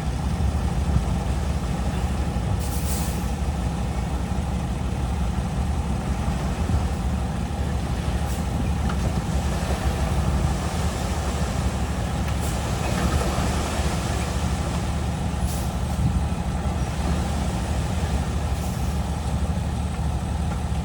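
Heavy diesel earthmoving machinery running steadily with a low engine drone. Short hisses break in every few seconds, about five in all.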